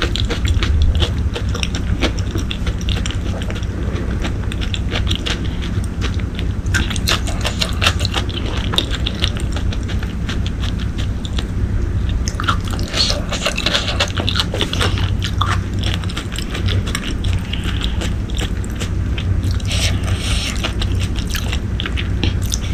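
Close-miked chewing and biting of braised pork leg: many quick wet smacks and clicks of the mouth, over a steady low hum.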